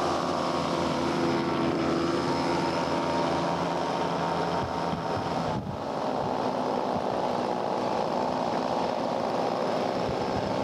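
Engines of a radio-controlled scale C-130 Hercules model running steadily at high power, with a brief dip a little over halfway through.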